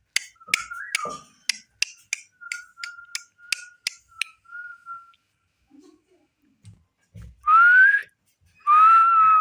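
Parrot whistling. The first half is a run of sharp clicks, about three a second, over a soft steady whistle. After a pause come two loud whistles near the end, the first rising in pitch and the second held level.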